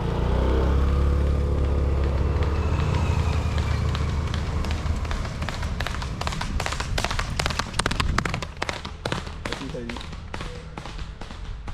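A motor engine runs with a steady low hum for the first few seconds and fades. Then comes a quick, irregular run of hoofbeats on hard ground: a horse galloping.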